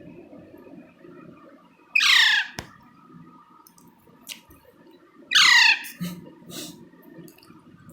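Baby Indian ringneck parakeet giving two harsh squawks, each sliding down in pitch over about half a second, about three seconds apart.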